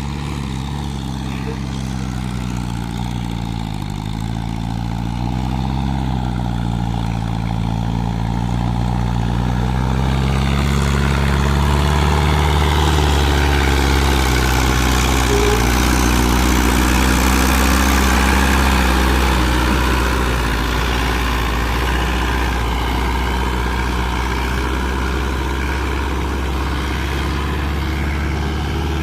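Mahindra Arjun 605 tractor's diesel engine pulling a fully loaded trolley up a steep slope, running steadily under heavy load. It grows louder a few seconds in, is loudest around the middle of the climb, and eases slightly near the end.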